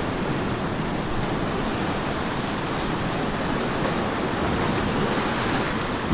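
Ocean surf breaking and washing on a beach: a steady, dense rush of waves, swelling slightly about two-thirds of the way through.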